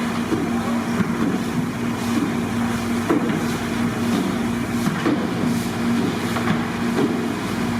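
Chicken frying in a pan on a stove: a steady rumble with a low hum, and occasional short clicks or scrapes.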